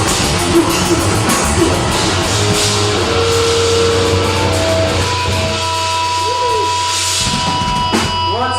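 Deathgrind band playing live through a club PA, with fast drums and distorted guitar until about three seconds in. Then the drumming stops and guitar feedback tones and a steady amp hum ring on.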